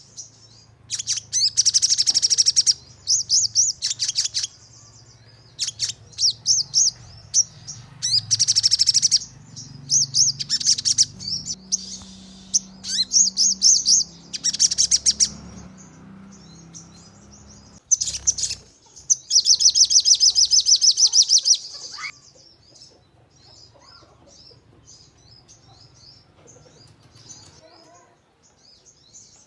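Sogon (crested jay) calling in fast, rattling volleys of sharp, closely spaced notes, the rapid 'nembak' calls, with three long dense rattles about two, nine and twenty seconds in. After about twenty-two seconds only fainter, scattered chattering remains.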